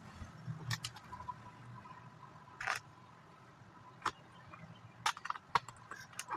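Plastic Lego bricks clicking and clattering as pieces are handled and pressed onto a baseplate: short, sharp clicks at irregular intervals, about a dozen in all.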